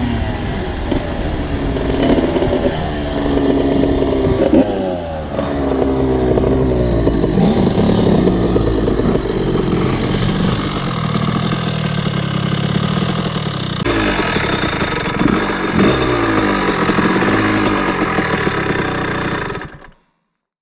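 Small two-stroke motocross bike engine riding a trail, revving up and down again and again as it goes through the throttle and gears. The sound cuts off suddenly near the end.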